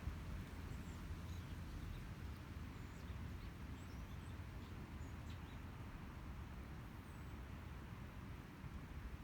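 Small birds giving scattered short, faint high chirps over a steady low rumble of outdoor ambience.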